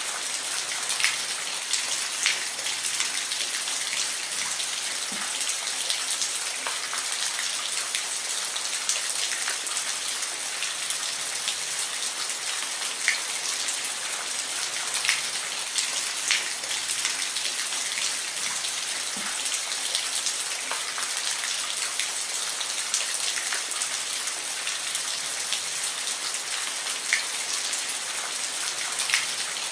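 Steady rainfall: an even hiss of rain with scattered louder individual drops ticking on a surface.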